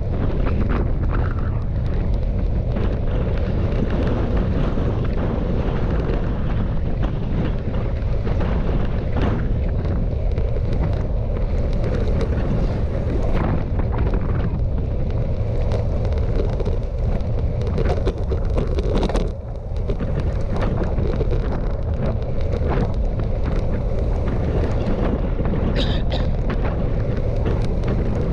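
Wind buffeting the microphone of a camera on a moving bicycle: a loud, steady low rush that eases briefly about two-thirds of the way through.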